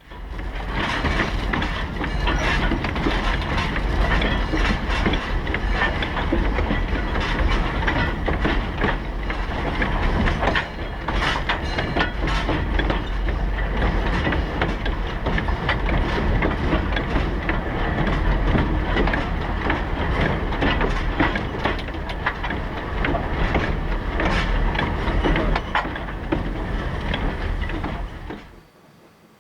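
A steam excursion train running on the rails: a steady rumble with dense clicking and clatter of wheels over the track. It cuts in abruptly and drops away near the end.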